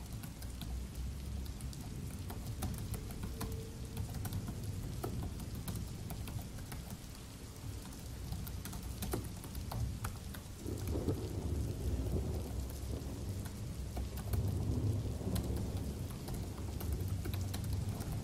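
Steady rain with rolling thunder, the low rumble swelling about eleven seconds in and again around fifteen seconds, under the light clicking of typing on a Dell laptop keyboard.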